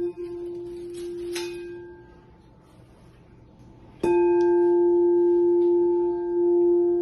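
Tibetan singing bowl tuned near F: one ringing tone fades away over the first two seconds, then the bowl is struck about four seconds in and rings on, loud and steady, with its overtones.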